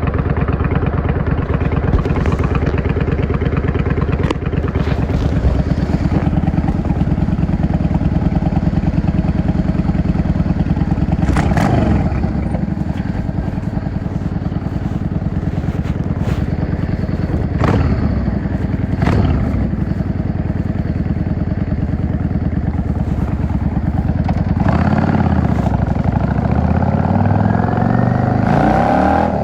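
Yamaha XVS 650 V-Star's air-cooled V-twin engine running steadily as the motorcycle is ridden, heard from the rider's seat, with a few short clicks. Near the end the engine note rises as it accelerates.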